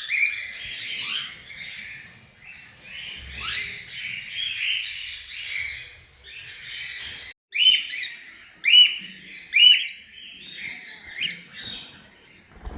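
Birds chirping, many short calls overlapping. About seven seconds in, three loud, sharp calls come about a second apart, followed by softer chirps.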